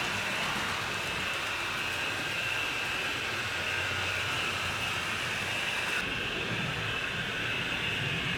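HO scale model train running on the layout: a steady whir of the motor and wheels on the rails, with the high hiss dropping away suddenly about six seconds in.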